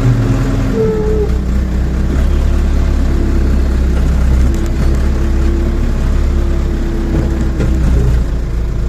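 Rondon backhoe loader's diesel engine running; its revs drop about a second in and it then runs steadily at a lower speed.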